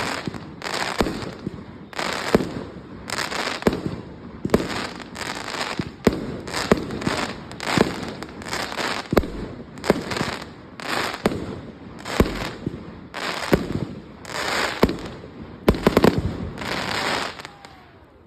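Fireworks going off in quick succession: loud bangs about one or two a second, many trailed by crackling.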